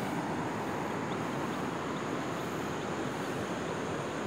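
Steady outdoor ambience: an even hiss with a thin, steady high-pitched insect drone over it.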